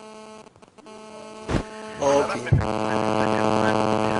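Steady electrical mains hum. A sharp click comes about one and a half seconds in, and just after two and a half seconds a louder buzzing hum starts suddenly and holds.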